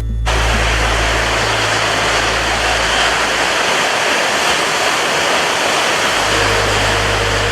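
Steady rushing water noise, like a waterfall, cutting in abruptly at the start over a low steady hum. The hum drops away for a couple of seconds midway and then comes back.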